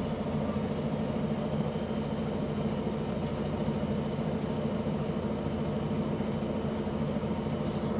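Bus engine running steadily with an exhaust leak.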